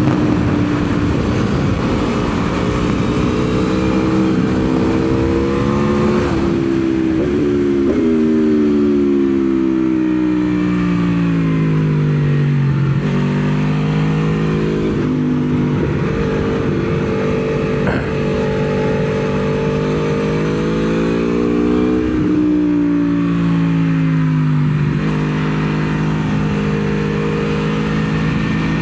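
Aprilia Tuono V4 motorcycle's V4 engine running hard on track, heard from on board with heavy wind rush. The engine note sinks slowly for several seconds, climbs again, then drops near the end and holds steady.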